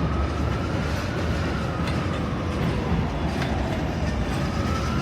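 New York City subway train running, heard from inside the car: a steady rumble of wheels on the track, with a faint whine that rises a little and falls back.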